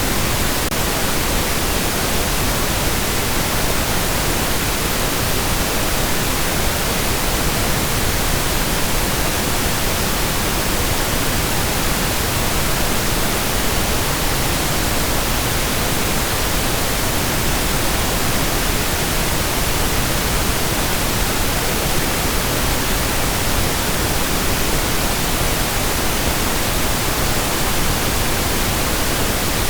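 Steady pink noise: an even, unbroken hiss across the whole range, with no change in level.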